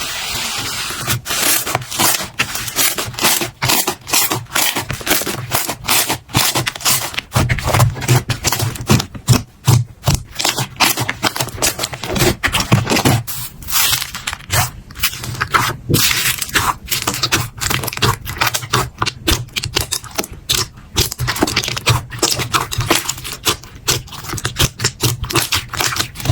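Slime being squeezed and worked by hand, giving a rapid, irregular run of crackling clicks and pops.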